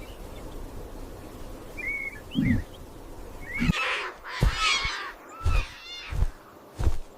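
Short bird-like chirps and a raspy warbling squawk, over a run of low thuds about a second apart.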